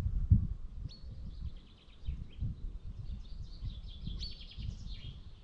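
A small bird singing a rapid, chirping song from about a second in, over the low rumble of wind on the microphone. A short low thump comes just after the start.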